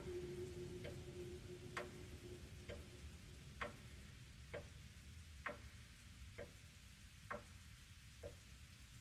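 Faint clock ticking, one tick roughly every second, with a low held tone fading away over the first few seconds.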